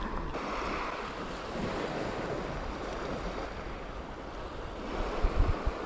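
Sea waves washing, with wind buffeting the microphone, and a few low bumps near the end.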